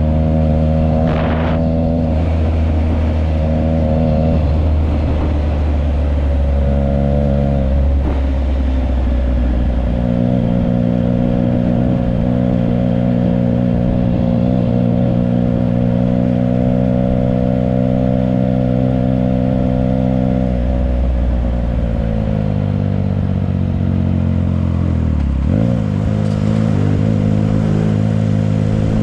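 Triumph Trident 660's inline three-cylinder engine running through a Yoshimura exhaust, the pitch shifting up and down several times as the throttle is opened and eased, with a brief dip and quick rise near the end.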